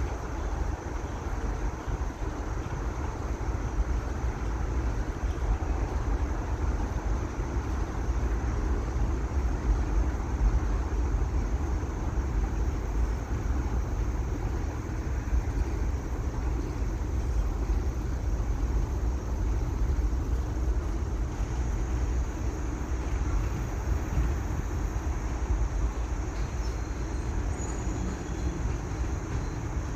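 Freight train rolling past, a steady rumble of wheels on rails that goes on without a break.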